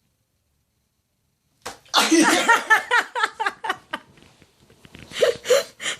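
A sudden sharp outburst about one and a half seconds in, then a person's loud, rapid staccato laughter that fades, with a second bout of laughing near the end.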